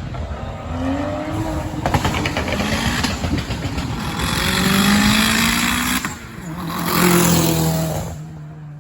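Car engine revving hard and accelerating, its pitch climbing in several runs, with two loud swells about halfway through and about three-quarters of the way through, then dropping back to a steady low engine note near the end.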